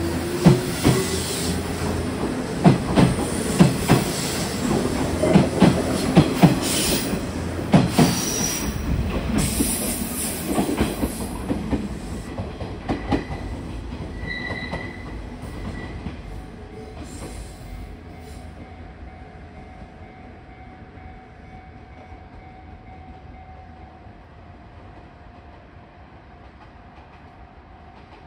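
Nishitetsu 6000 series four-car electric train pulling out and passing, its wheels clacking over rail joints, with a rising whine near the start. The clatter fades steadily over the second half as the train draws away, with a brief wheel squeal about fourteen seconds in.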